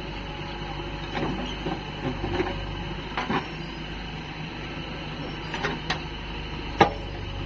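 Diesel machinery engine running steadily under a series of sharp knocks and clanks, the loudest a single clank near the end.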